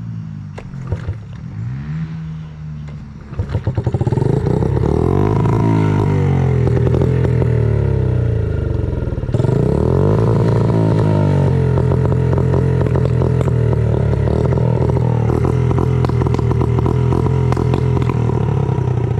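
The small single-cylinder four-stroke engine of a Honda CRF50 dirt bike running, quiet at first, then revving loudly from about three and a half seconds in, its pitch rising and falling. The rider says something is wrong with the motor but does not know what.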